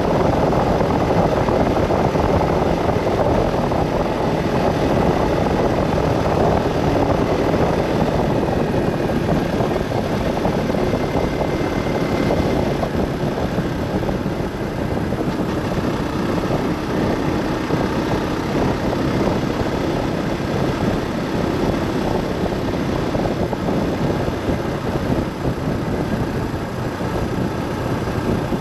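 Steady engine and road noise of a vehicle on the move, a dense rumble without any change in pace.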